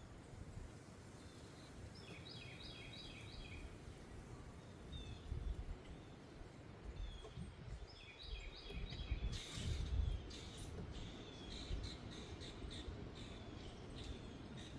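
Small birds singing: a quick four-note phrase about two seconds in and again near the middle, then a run of rapid chirps. Wind buffets the microphone with a low rumble that rises in gusts.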